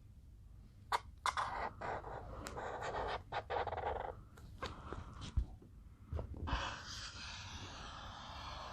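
Drawing strokes on paper over a clipboard: a few light taps, then short scratchy strokes, and one longer continuous stroke starting about six and a half seconds in.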